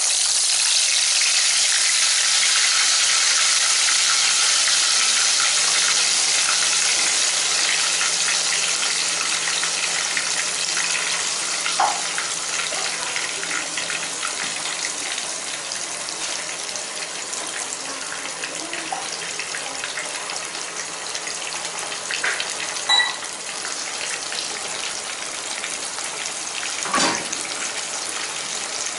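Wet green masala gravy (blended tomato, onion, mint, ginger and garlic) sizzling in hot oil in a pan: a loud frying hiss, strongest at first and slowly easing as the water in the paste boils off. A few small clicks come through it.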